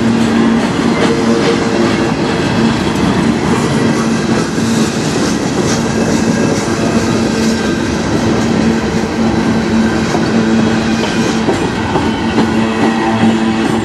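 Loaded freight cars of a manifest train rolling past at close range: a steady loud rumble of steel wheels on the rails, with a humming tone underneath and clattering clicks as the wheels cross rail joints.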